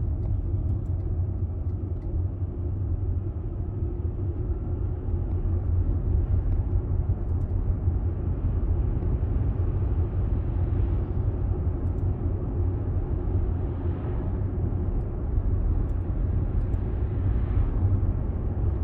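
Steady low rumble of a car driving, with a few gentle swells in level.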